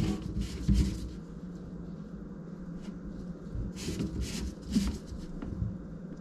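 A few light knocks and clicks of handling, spaced irregularly, over a faint steady low hum.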